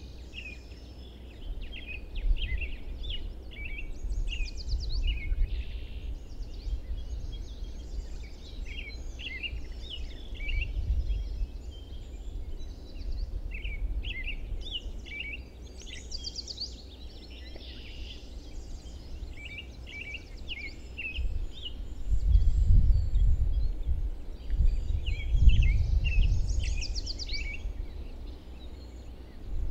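Several songbirds calling and singing: many short chirps and quick trills overlapping throughout. Beneath them runs a low rumble that swells louder twice about two-thirds of the way through.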